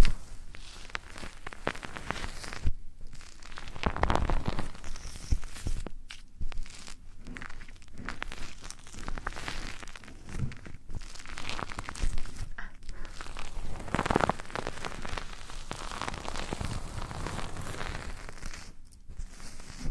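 Close, irregular rustling and scratching on the microphone, the ASMR trigger sounds of rubbing and cleaning an ear.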